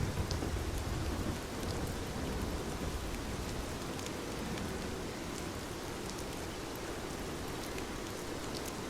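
Steady rain falling, an even hiss with scattered sharp drop ticks, and a low rumble in the first second and a half.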